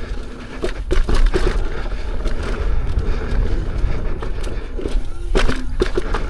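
Lynx electric unicycle ridden fast over a rough dirt trail: a constant low rumble with irregular knocks and clatters as the wheel rolls over bumps and rocks.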